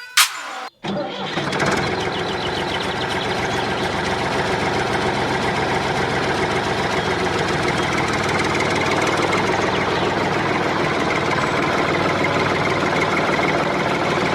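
A DIY mini tractor's small engine starts about a second in, then runs steadily.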